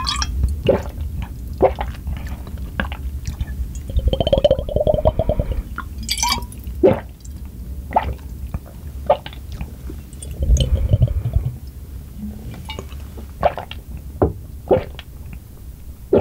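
Close-miked chewing with the mouth closed: soft, wet squishing of food with scattered sharp mouth clicks and smacks.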